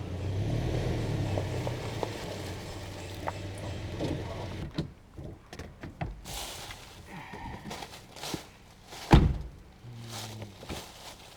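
A vehicle engine running steadily, which stops about five seconds in. Scattered clicks and knocks follow, with one loud thump about nine seconds in.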